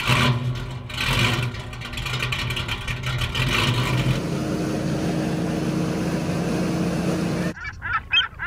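Car engine running, loud and pulsing for the first few seconds and then holding a steady drone; it cuts off abruptly near the end.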